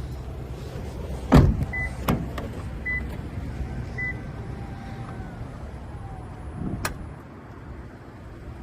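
A Toyota Alphard's electric power door operating. A heavy thump comes first, then three short warning beeps about a second apart. The door motor whines steadily for about three seconds and ends in a latching clunk.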